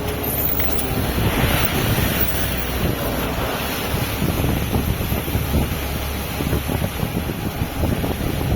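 Strong wind gusting on the microphone over the sea, with waves washing and a steady low rumble from the boat.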